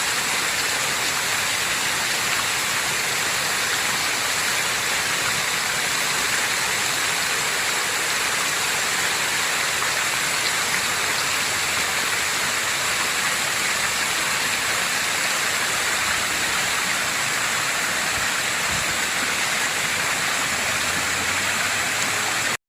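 Fountain water falling and splashing steadily into its pool, a continuous even rush.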